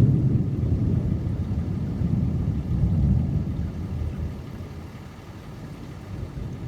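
Thunder rumbling: a sudden low rumble that holds for about three seconds and then dies away.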